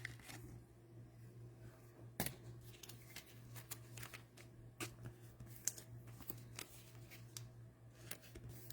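Faint handling of trading cards: soft clicks, slides and rustles as cards are flipped and shuffled, with a sharper snap about two seconds in. A steady low hum runs underneath.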